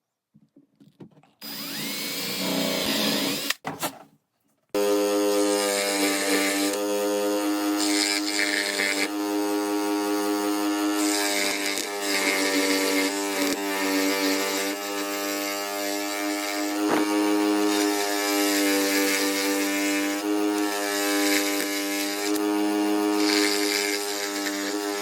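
Electric power tool working wood: a short run, a brief stop, then the motor running steadily at a constant pitch for the rest of the time.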